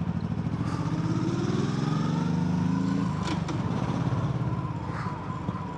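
Yamaha MT-07's parallel-twin engine accelerating, its pitch rising for about three seconds; then the revs drop suddenly and it runs on steadily at a lower pitch.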